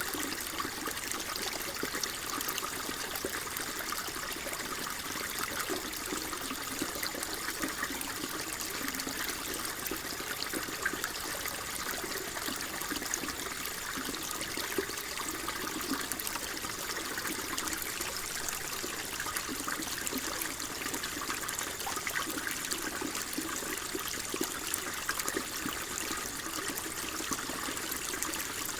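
Water flowing and trickling steadily, a continuous babbling splash with no pauses.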